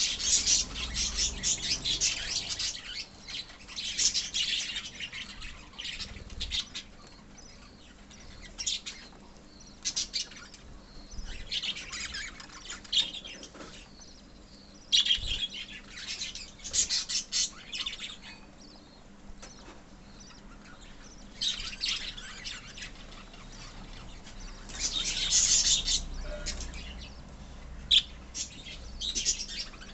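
A colony of small pet parrots chirping and chattering in repeated bursts of high, shrill calls, with quieter gaps between the bursts.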